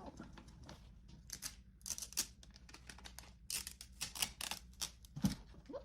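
Irregular clusters of quick, sharp clicks and crackles, typing-like, with a single low thump near the end.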